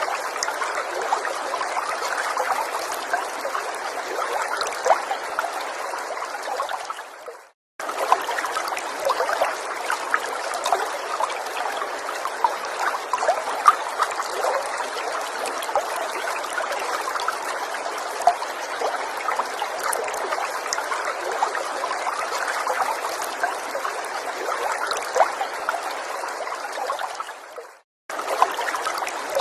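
Small forest stream trickling and gurgling steadily over stones, with small splashes. Twice the sound fades out to silence for a moment and cuts abruptly back in.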